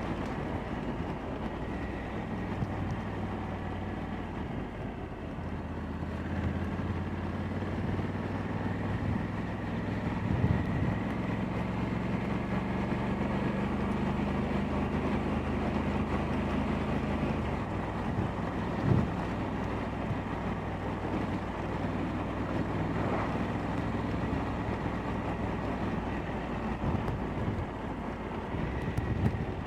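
Honda Africa Twin 1100's parallel-twin engine running at low road speed, heard onboard with some wind on the microphone. The engine note steps down about two-thirds of the way through, and there are a couple of short knocks.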